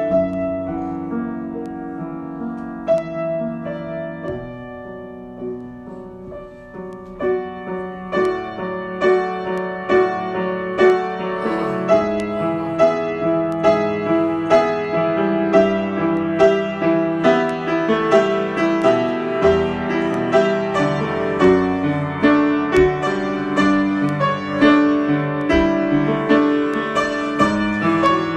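Solo piano improvisation: a softer, sparser passage of held notes that dips lowest a few seconds in, then picks up into a busier run of repeated notes that grows louder.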